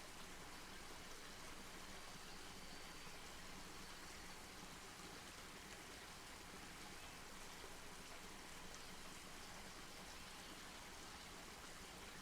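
Campfire burning, a soft steady hiss with faint scattered crackles of burning wood.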